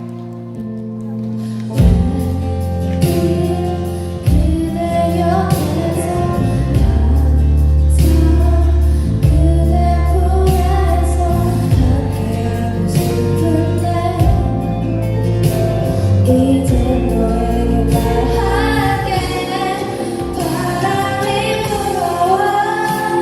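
A choir singing gospel-style music over an instrumental accompaniment with a strong bass line. The fuller accompaniment comes in about two seconds in, after a quieter opening.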